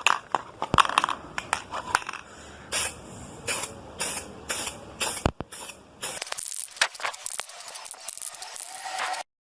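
Aerosol spray-paint can hissing in light passes: a few clicks, then a run of short sprays, then one longer spray of about three seconds that cuts off abruptly near the end.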